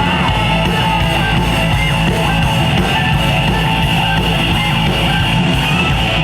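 Live rock band playing an instrumental passage between sung sections, with guitar to the fore.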